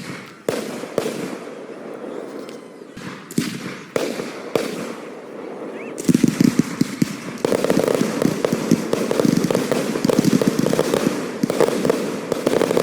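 Aerial fireworks bursting: a handful of separate bangs, then about six seconds in a dense barrage of rapid bangs and crackling that continues without a break.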